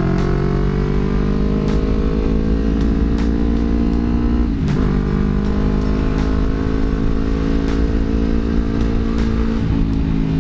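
Yamaha R25 parallel-twin engine through a Villan MV1 aftermarket exhaust with a deep, mellow bass note, pulling under way with the pitch slowly rising. It breaks briefly for a gear change about four and a half seconds in, then holds a steady note.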